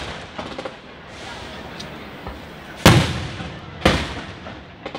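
Aerial firework shells bursting: two loud bangs about a second apart in the middle, each trailing off, with smaller pops and crackle early on.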